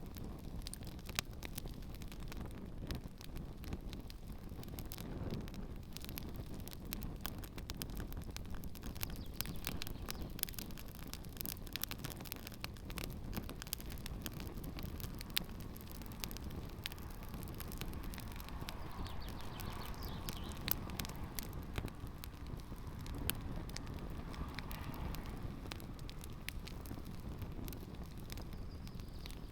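Campfire burning a pair of shoes: the fire crackles with frequent sharp pops and snaps over a steady low rumble of flames.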